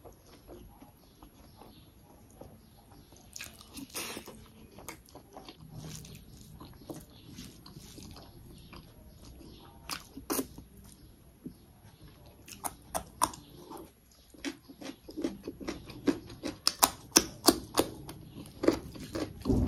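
A person eating rice and chicken by hand, chewing with wet mouth clicks and smacks. The clicks are sparse at first, then come thick and loud in the second half.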